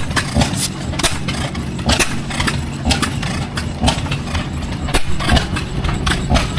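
Antique engine running, with sharp firing pops at uneven intervals over a steady low drone.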